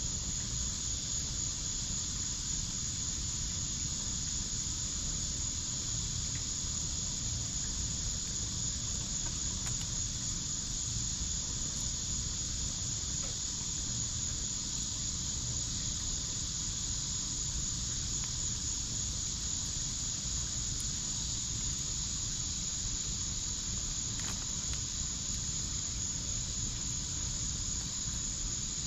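A steady, high, unbroken chorus of crickets over a low, even rumble, with a few faint pops from a wood fire in a fire pit.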